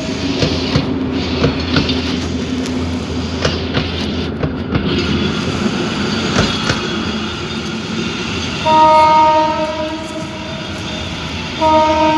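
Passenger train running past close by, its wheels rumbling and clicking over the rails. Near the end a train horn sounds twice, each blast a second or so long.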